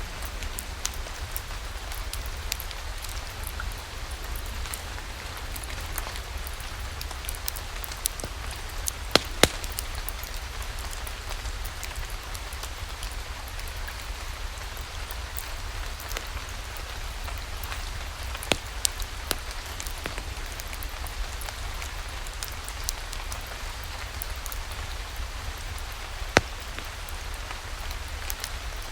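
Steady rain, an even patter over a low rumble, with scattered sharp clicks; the loudest clicks come about nine seconds in and again near the end.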